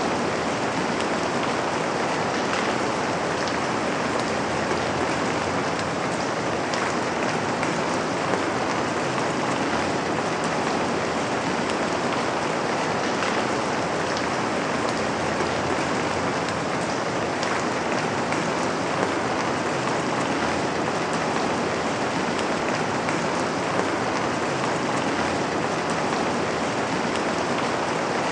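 Steady, heavy rain: a dense, even hiss of falling drops, with a few single drops standing out sharper now and then.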